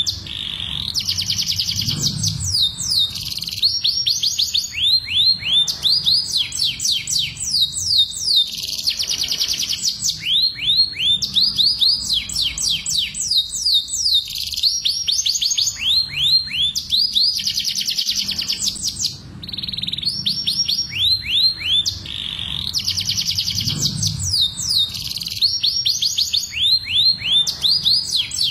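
Domestic canaries singing: phrase after phrase of fast trills made of rapidly repeated, downward-sweeping high notes, with brief pauses between phrases.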